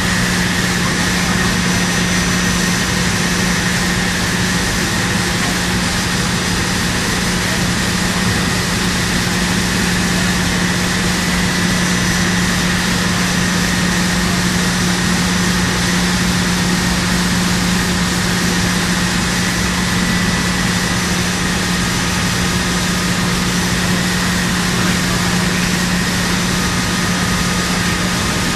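Machinery running steadily: an even rushing noise with a constant low hum under it that does not change.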